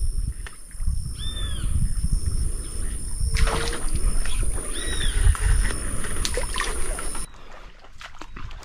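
Outdoor ambience with a constant low rumble, a steady high-pitched drone, and two short arching bird calls. The drone cuts off suddenly about seven seconds in, and scattered clicks and light water sounds follow.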